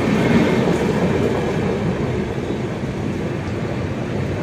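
Passenger train running at speed, a steady rumble and rattle of the coach as heard from its open doorway, a little louder in the first second.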